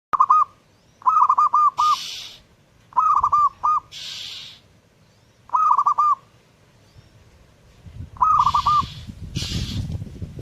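Zebra dove (perkutut) singing: five phrases of quick, rolling coo notes, each phrase lasting under a second, with pauses of one to three seconds between them. Softer hissing bursts come between some of the phrases.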